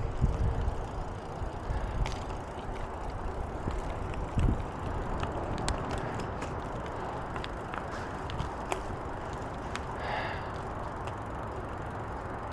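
Bicycle being ridden: steady tyre and wind noise with scattered small clicks and rattles from the bike.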